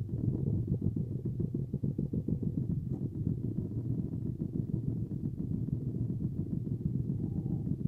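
Car engine idling, a low steady rumble with a fast flutter, heard from inside the cabin.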